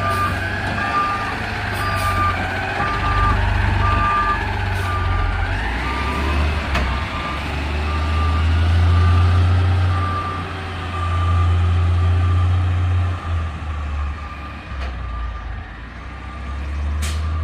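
Garbage truck backing up: its reverse alarm beeps steadily about once a second over the truck's engine running.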